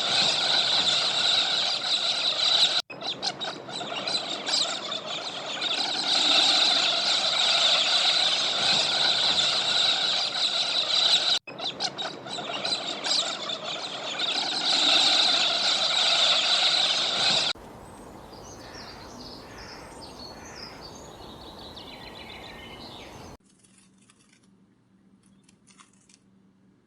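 A large flock of poultry calling together in a dense, loud din, heard in three clips cut back to back. About two-thirds of the way in it changes to a quieter clip of scattered bird chirps, then near silence at the end.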